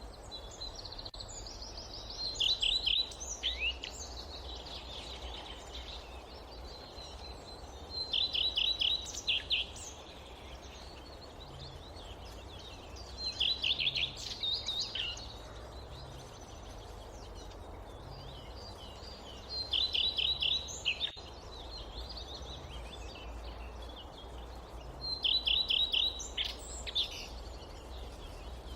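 A songbird repeating the same short song five times, about every six seconds: each a quick run of high notes lasting about a second. Under it, a steady low hush of forest ambience.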